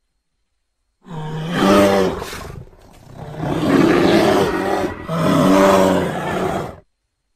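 Bear roaring in three long, pitched roars. The first starts about a second in and the last cuts off near the end.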